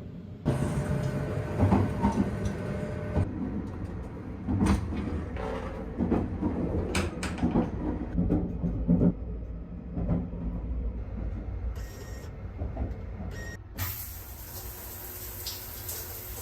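Steady rumble of a moving train heard from inside, with a series of knocks and clatters on top. Near the end a steady hiss begins, like a tap running.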